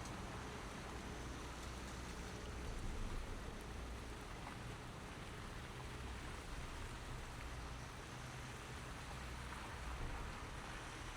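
Car driving on snow-covered city streets: a steady hiss of tyres on the wet road over a low rumble.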